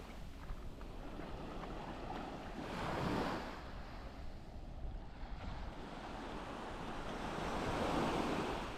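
Small waves breaking and washing up a sandy beach, with two surges about three seconds and eight seconds in, over a steady sea hiss and some wind.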